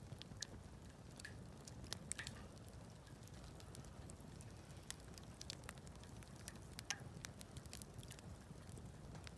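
Wood campfire crackling: irregular sharp pops and snaps, a couple of louder ones about two and seven seconds in, over a faint low steady rumble.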